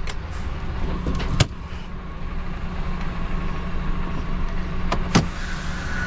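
Heavy truck's diesel engine running steadily at low revs, with two sharp clicks, one about a second and a half in and one near the end.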